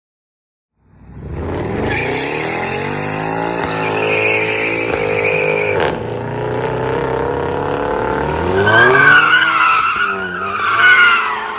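Car engine revving hard with tyres squealing, starting about a second in. The engine pitch rises and falls, and the squeal grows strongest near the end.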